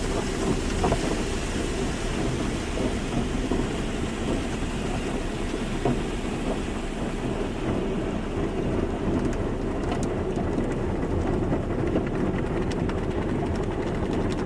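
Car wash running: a steady hiss of spraying water over a low mechanical rumble. The highest part of the hiss thins out in the second half.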